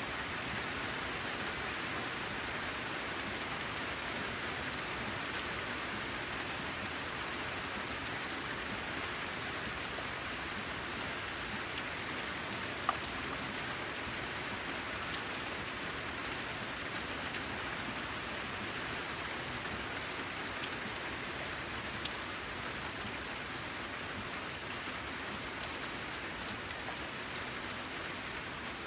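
Steady rain falling, with scattered sharper drops ticking over it; one drop about thirteen seconds in stands out most.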